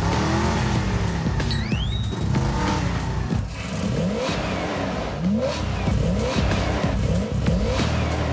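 Cartoon car engine sound effects: an engine running and revving in repeated short upward sweeps in pitch, with a quick rising whistle about two seconds in.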